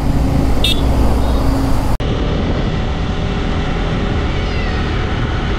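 Bajaj Pulsar N250's single-cylinder engine running at highway speed with wind noise. The sound breaks off suddenly about two seconds in, then the engine is heard again with its pitch rising as the bike accelerates.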